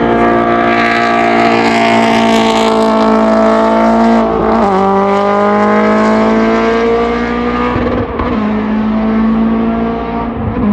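Race car engine at full throttle accelerating hard, its pitch climbing slowly and dropping sharply at each upshift, about four and a half and eight seconds in and again at the very end.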